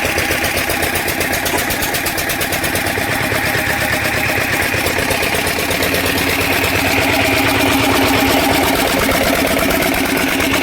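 Old water-cooled twin-flywheel 10 HP stationary engine running with a rapid, regular firing beat. It grows slightly louder about two-thirds of the way in.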